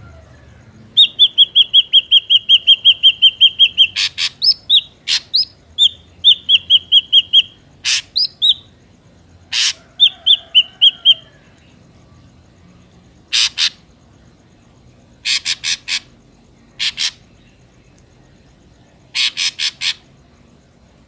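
Ashy drongo calling: a fast run of about six or seven whistled notes a second for a few seconds, then a mix of short rising whistles and harsh, rasping calls given in small groups with pauses between.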